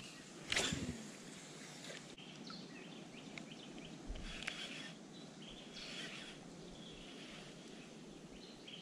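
Faint birds chirping over quiet river-bank ambience, with a brief louder sound about half a second in.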